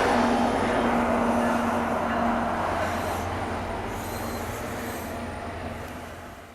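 Train rolling by on the rails and fading steadily into the distance, with a steady hum at first and a faint high wheel squeal about four seconds in.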